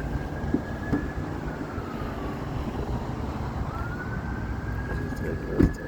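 Emergency vehicle siren wailing, its pitch slowly climbing and then falling away twice, over steady traffic and engine rumble. A short knock sounds near the end.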